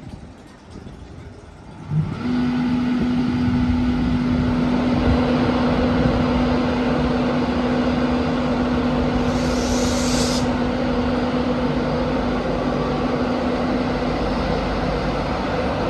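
A train's steady running noise with a constant hum, starting suddenly about two seconds in, with a short hiss of air about eight seconds later.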